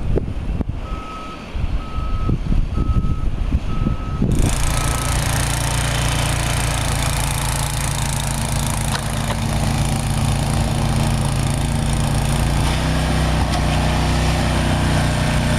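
A reversing vehicle's backup alarm beeps five times, about once a second, over a low engine rumble. About four seconds in, the sound switches abruptly to a loud, steady engine drone with a strong rushing hiss.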